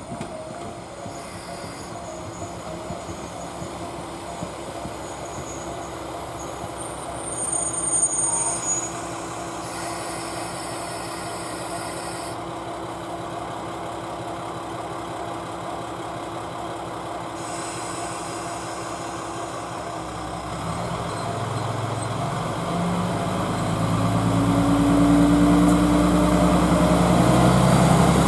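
A train approaching along the track, its low running noise building up over the last several seconds, under a steady hum. A brief louder moment with thin high tones comes about eight seconds in.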